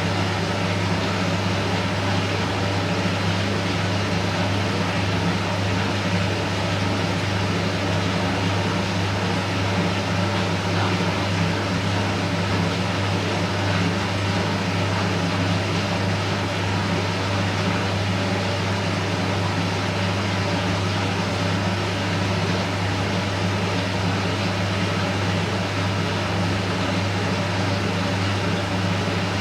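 Candy Smart Inverter CSS4 37TWMB front-loading washing machine running, a steady low hum with an even whirring noise over it.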